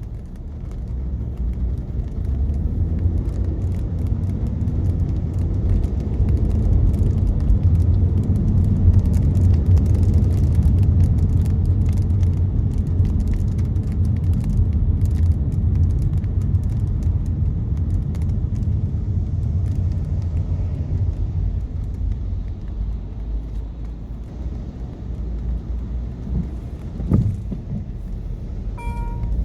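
Low road and tyre rumble inside a car's cabin as it drives on wet roads, swelling in the middle and easing later, with light ticks of raindrops on the glass. A single thump late on and a short electronic beep near the end.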